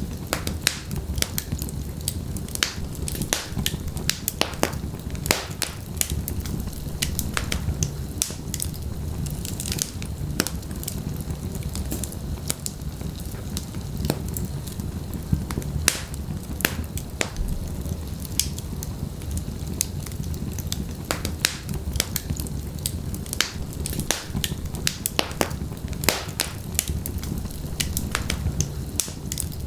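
Wood fire burning in a fireplace: burning logs crackling and popping in sharp, irregular snaps over a steady low rumble of flame.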